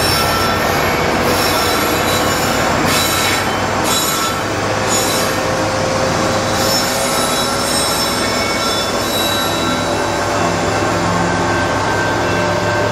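Freight train passing close by at its rear, with the diesel engine of the rear-end locomotive running as it goes past. A long, drawn-out squeal of steel wheels on the rails runs over the steady rumble of the train.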